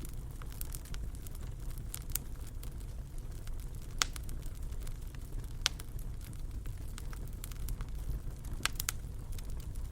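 Wood fire crackling over a low steady rumble, with scattered sharp pops; the two loudest come about four and five and a half seconds in, and a few more follow near the end.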